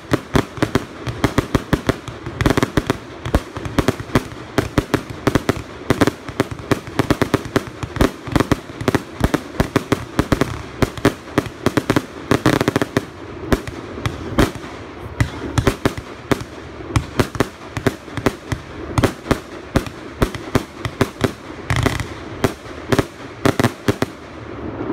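Fireworks display: a dense, unbroken run of bangs and crackles, several a second, with a heavier cluster of bursts near the end.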